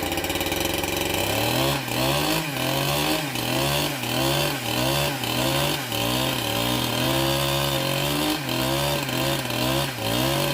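Chainsaw running under load, cutting wood. Its pitch sags and recovers in a regular rhythm, a little more than once a second.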